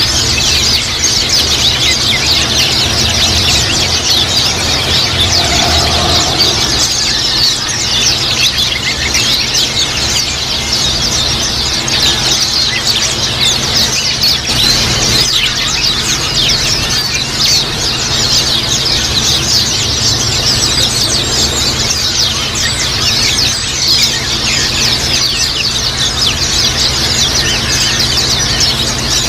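A flock of white-eyes (pleci) chattering together: a dense, unbroken twitter of quick, high-pitched chirps.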